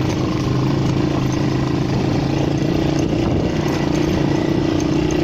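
ATV engine running at a steady, even pitch under way, with a haze of road and tyre noise over it.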